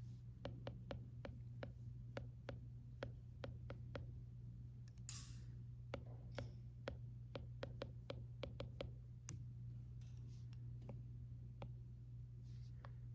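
Stylus tip tapping on an iPad screen during handwritten note-taking: a run of light clicks, two to three a second, that stops about nine seconds in. Underneath is a steady low room hum, with a brief hiss about five seconds in.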